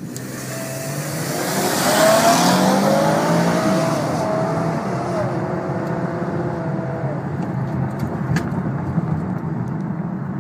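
A 2012 Chevrolet Camaro RS's 3.6-litre V6 at full throttle, accelerating hard from a standstill. The engine note climbs, and its pitch drops back at each upshift, about three times.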